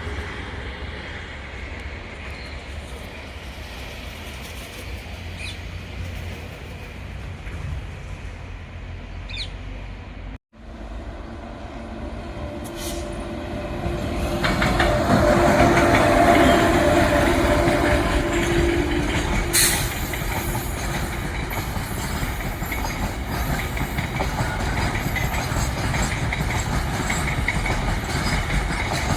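Freight train of tank wagons rolling past, steel wheels clattering over the rail joints. It gets louder about halfway through.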